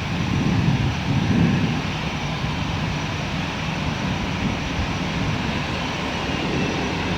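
Jet engines of an Airbus A330-343, its Rolls-Royce Trent 700 turbofans, running as a steady low rumble that is a little louder in the first second or two.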